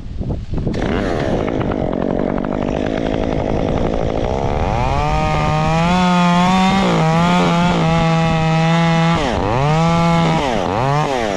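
Gas chainsaw revving up to full throttle about four and a half seconds in and holding a steady high engine note, its pitch dropping sharply and recovering twice near the end as the throttle is eased. Wind rushes over the microphone before the saw comes up to speed.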